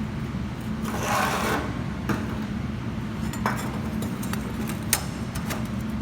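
Steady low machine hum, with a scraping rustle about a second in and a few sharp clicks and knocks of tools and metal pieces being handled.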